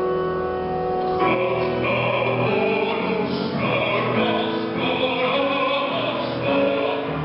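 A recorded song: a held instrumental chord, then, about a second in, a man's trained, opera-style voice begins singing over the accompaniment.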